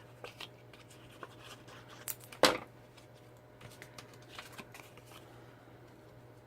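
Cardstock pieces being handled on a craft table: light rustles, scrapes and small taps, with one sharp knock about two and a half seconds in.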